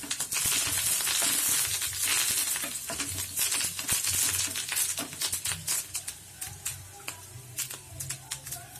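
Curry leaves spluttering and sizzling in hot oil with cumin, ginger and garlic, stirred with a wooden spatula. The crackle is loudest for the first few seconds, then thins to scattered pops.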